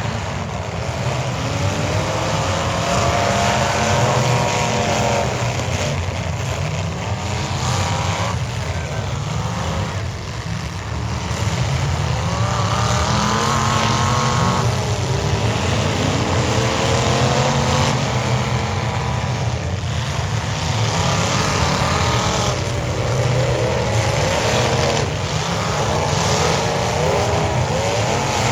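Demolition derby car engines running loud, revving up and down over and over.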